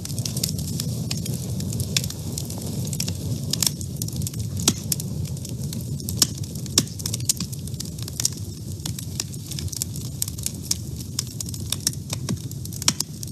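Wood fire burning in a woodstove: many sharp, irregular crackles and pops over a steady low rumble of the flames.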